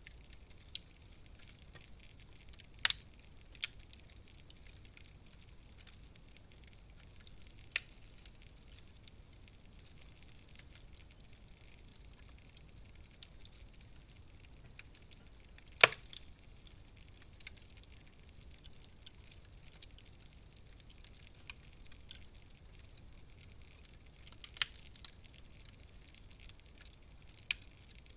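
Wood fire crackling in a fireplace: scattered sharp pops and snaps over a faint steady hiss, the loudest pop about halfway through.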